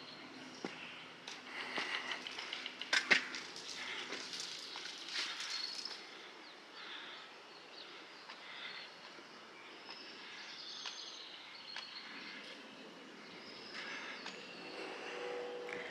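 Footsteps crunching and rustling on a trail, heaviest in the first few seconds with one sharp click about three seconds in, over faint outdoor ambience with scattered bird chirps.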